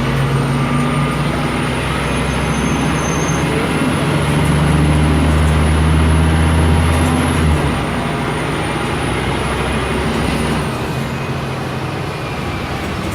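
Scania K310 city bus engine running under way, heard on board; it pulls harder and louder for a few seconds, then drops back abruptly about seven and a half seconds in. A thin high whine runs over it and fades away near the end.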